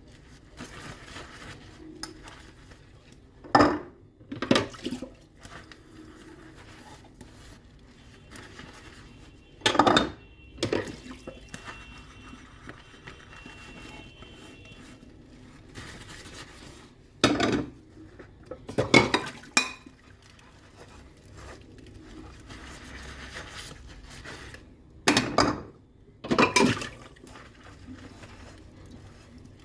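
Dishes and cutlery clattering as they are washed by hand: about eight sharp clinks and knocks, mostly in pairs a few seconds apart, with quieter handling sounds between.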